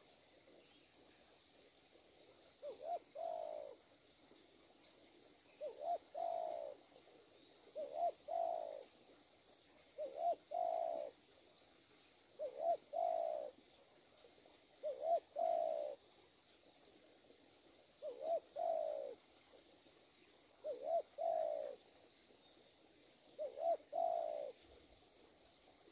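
Newly caught wild spotted dove cooing: nine phrases, each two short notes followed by a longer falling note, repeated about every two and a half seconds.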